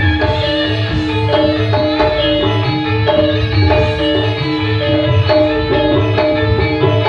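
Instrumental campursari music: hand drums keep a steady beat and a regular bass pulses underneath, while a melody of held pitched notes plays over them.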